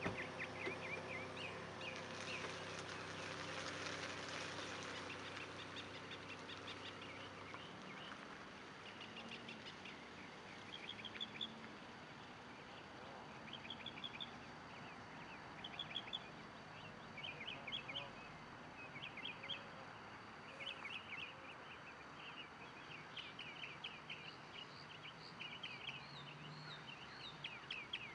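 Wild birds chirping and calling over and over, short high chirps that come in clusters every second or two, with a steady low hum underneath for the first several seconds that then fades away.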